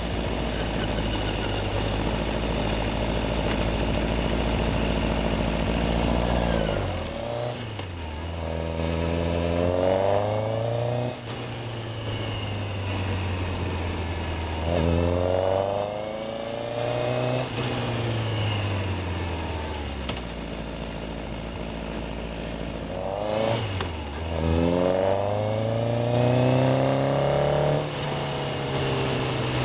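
Yamaha XJR1300's inline-four engine, heard from the bike itself, idles steadily, then pulls away with a rising rev about seven seconds in. It rises twice more, around the middle and near the end, with steadier running in between.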